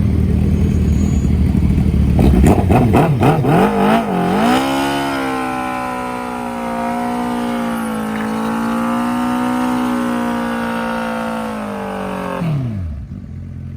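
Car engine idling with a deep low note, then revved hard in a few quick rising and falling blips about two seconds in. It is then held at high revs with a steady, slightly wavering pitch for about eight seconds before the revs drop away near the end.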